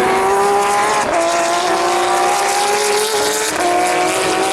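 Race car engine accelerating past at high revs, its note climbing steadily, with a drop in pitch about a second in as it shifts up a gear.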